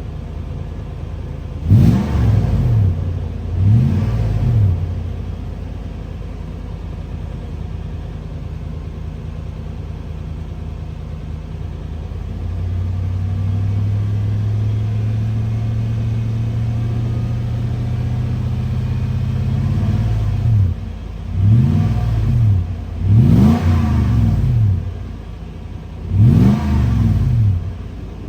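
Lexus GX 470's 4.7-litre V8 exhaling through a Magnaflow aftermarket exhaust: idling, revved twice briefly, held at raised revs for several seconds, then blipped several more times near the end. The note is fairly subtle, much of the noise coming from the engine itself rather than the exhaust.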